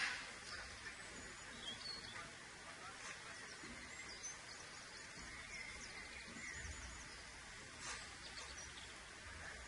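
Faint high bird chirps and short trills over steady background noise, with a brief burst of noise near the end.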